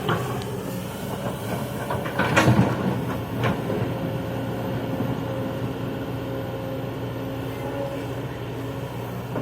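Kobelco excavator's diesel engine running steadily, with a loud metal clanking about two and a half seconds in and a single sharper knock about a second later.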